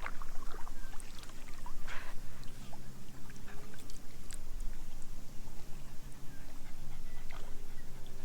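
Water splashing and lapping around a kayak, with scattered short splashes and drips. A faint low steady hum comes in about two seconds in.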